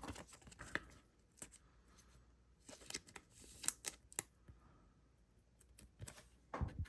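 Trading cards being handled and flipped through: faint, scattered slides and clicks of card stock, with a slightly longer scrape a little past three seconds in.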